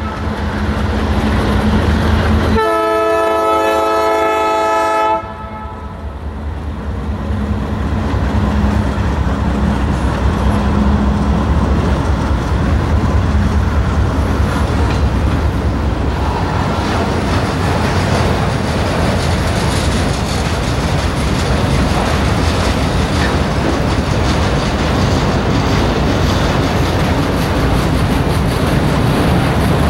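Diesel locomotive air horn sounds one chord blast of about two and a half seconds, starting a couple of seconds in. Then the steady rumble and clatter of a long freight train's autorack cars rolling past.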